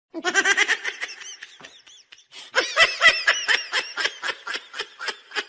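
High-pitched laughter in quick, rhythmic bursts, in two bouts: one at the start, a second stronger one about two and a half seconds in that tails off.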